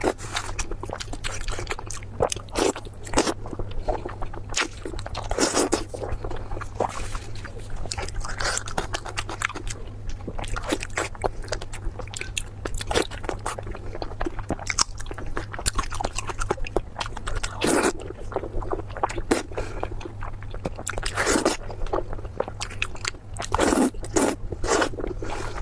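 Close-miked chewing and biting, with irregular wet crunches and crackles as food is bitten and chewed, over a steady low hum.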